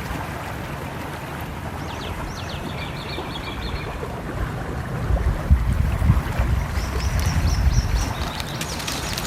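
Nature ambience: songbirds chirping in quick trills of repeated high notes, twice, over a steady low rush of flowing water that grows louder about halfway through.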